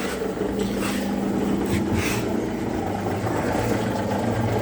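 Zocca 500 metal shaper running with a steady mechanical hum while its ram oiling is checked, with a few brief scraping noises about one and two seconds in.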